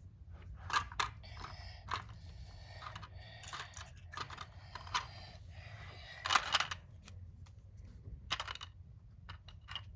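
Small plastic toy pieces being handled and set down, with scattered light clicks and taps, a cluster of louder rattles a little past halfway.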